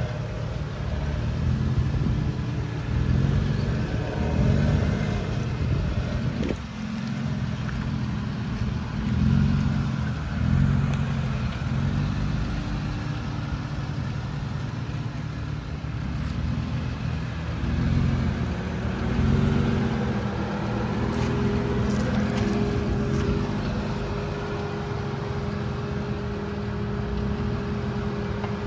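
Jeep Wrangler's engine running at low revs as it crawls through a deep rut, the revs swelling and easing every second or two with the throttle. A steady whine comes in a little past halfway, and a few clicks sound near the end.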